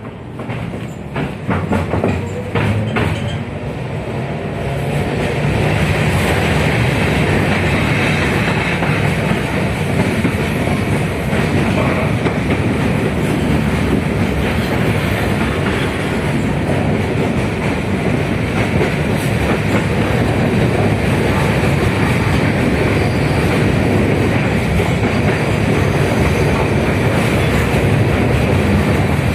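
A 71-619KT tram car in motion, heard on board: its running noise builds over the first five seconds as it gathers speed, with a run of sharp clicks early on, then settles into a steady rumble and hiss. The car has KR-252 traction motors under a Kanopus contactor-transistor control system.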